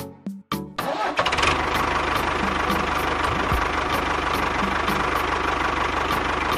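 Small engine starting about a second in, then running steadily with a fast, even firing beat.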